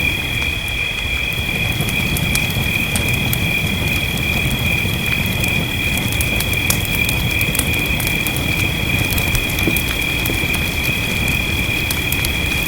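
Fireplace crackling, many small sharp pops over a steady low rush of fire and rain. A steady high-pitched drone on two pitches runs through it all.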